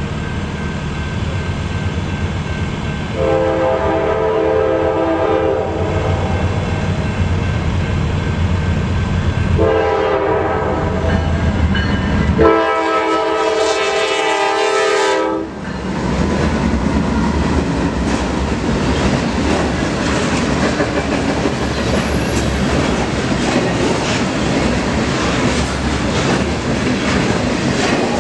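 Norfolk Southern freight train's diesel locomotives running toward a grade crossing, sounding the horn three times: a long blast, a short one, then a long one held as the lead unit crosses the road, the standard grade-crossing warning. After that the freight cars roll past with a steady rushing clatter of wheels on the rails.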